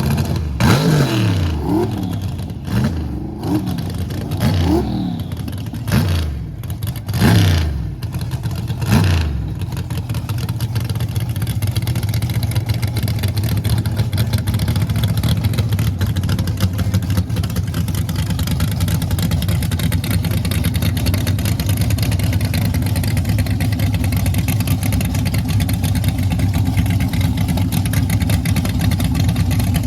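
A performance car's V8 engine revved in about six quick blips, the pitch falling after each one, then settling into a steady, even run at a low pitch.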